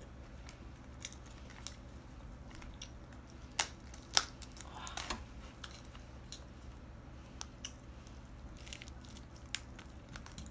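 Steamed Boston lobster being broken open by hand: scattered clicks and crackles of shell, with two louder cracks about three and a half and four seconds in.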